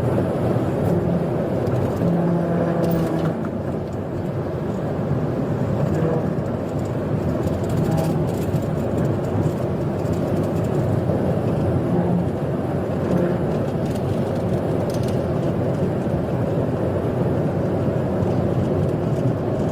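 Car driving at high speed: steady engine and road noise.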